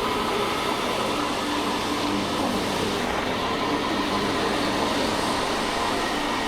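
Steady rush of wind and road noise from a motorcycle on the move, even throughout.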